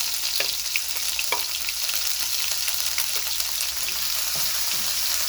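Food frying in hot oil: a steady sizzle with scattered pops and crackles.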